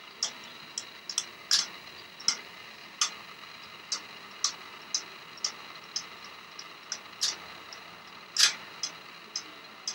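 A birdcage's small feed door clicking and rattling as a budgerigar tugs at it with its beak: irregular sharp clicks about two a second, with louder clacks about a second and a half in and near the end.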